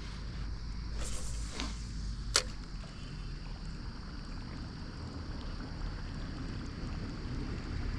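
A fishing rod cast: a quick swish about a second in, then a single sharp click a moment later, over a steady low rumble of wind on the microphone.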